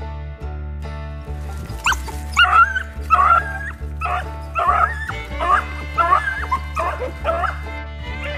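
Background music with a steady beat, and over it a dog giving a quick run of high yelping barks from about two seconds in, roughly one every two-thirds of a second.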